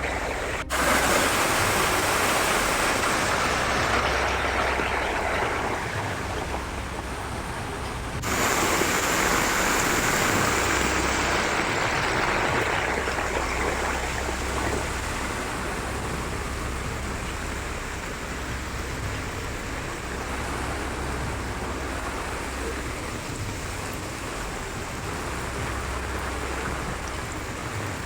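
Rushing floodwater pouring through town streets and stairways, a steady loud wash of water noise. It jumps abruptly about a second in and again about eight seconds in, as the shots change.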